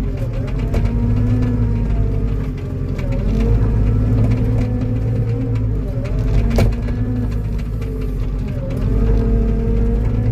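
Diesel engine of a tracked skid steer or mini excavator working hard, its pitch dipping and recovering several times as it pushes against a tree. There is one sharp knock about six and a half seconds in.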